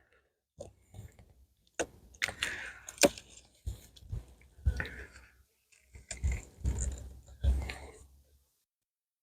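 Wooden beehive parts being handled with a hive tool: irregular clicks, scrapes and crackling crunches as frames and boxes are worked.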